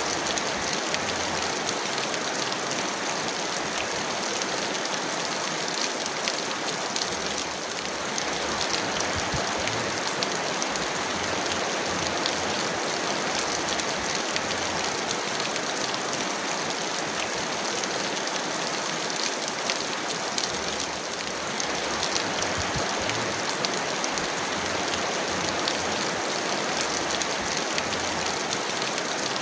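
Heavy rain falling steadily: a dense, even hiss of rain with countless individual drops ticking through it, easing off slightly twice.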